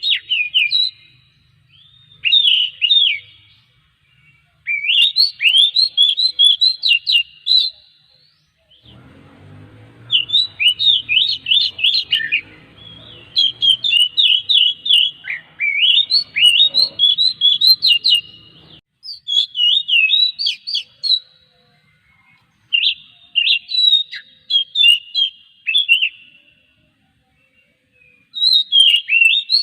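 Oriental magpie-robin singing: loud, rapid phrases of sweeping whistles and chattering notes in bursts of one to three seconds, with short pauses between them.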